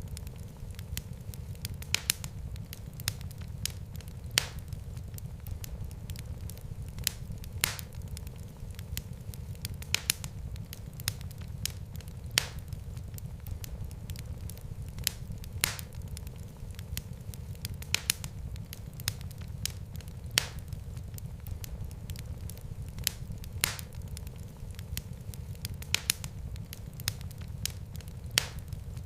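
Wood fire burning in a fireplace: a steady low rumble of flames with sharp crackles and pops, a louder pop about every two seconds and fainter clicks between.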